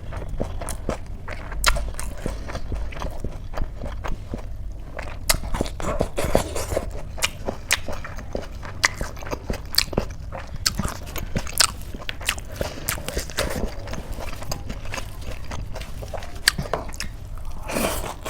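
Close-up eating sounds: a person chewing and crunching food, with many sharp, irregular crisp clicks.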